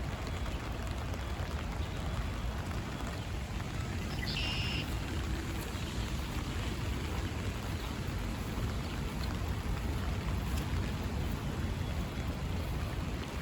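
Steady rain falling, with a brief high bird call about four and a half seconds in.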